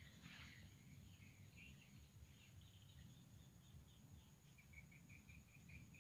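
Near silence with faint bird chirps over a low background rumble, and a quick run of short chirps, about three a second, near the end.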